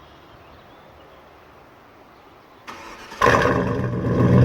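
Chevy Tahoe's 5.7 Vortec (350) V8 cold start: after a couple of seconds of quiet, a brief crank about two and a half seconds in, then the engine catches just after three seconds and runs loudly through its dual exhaust with Flowmaster Super 10 mufflers, getting louder as it settles into a high cold idle.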